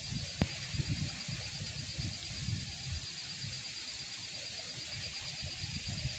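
Steady hiss of rushing water from the falls, with a thin, continuous high-pitched buzz over it and irregular low thumps. A single sharp click comes about half a second in.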